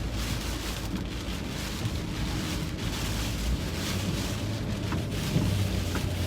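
Heavy rain and wind hitting a car driving through a thunderstorm core, with steady engine and road noise underneath.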